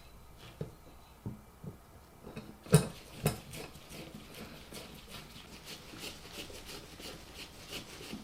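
Metal ceiling-fan mounting bracket and its screws being handled and fitted: scattered light clicks, two sharper knocks about three seconds in, then a run of small rapid ticks.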